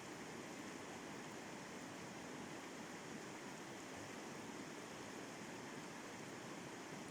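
Steady, even rush of water pouring over a river rapid.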